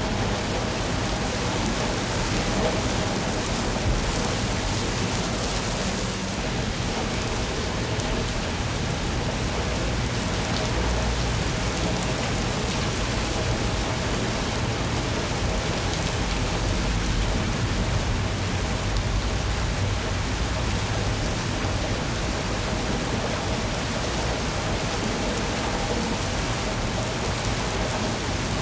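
Steady rain falling, with a low rumble underneath that swells slightly a couple of times.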